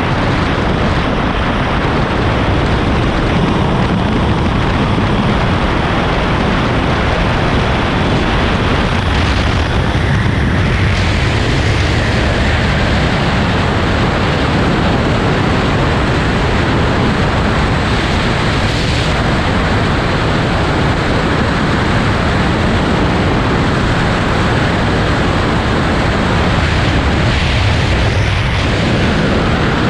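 Wind buffeting the microphone of a Triumph Speed Triple 1200 RS motorcycle ridden at speed: a loud, steady rush of noise.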